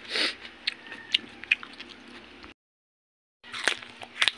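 Close-up mouth sounds of a person chewing raw vegetables, with scattered wet clicks and crunches, then crisp bites into a raw eggplant near the end. The sound cuts out completely for about a second in the middle.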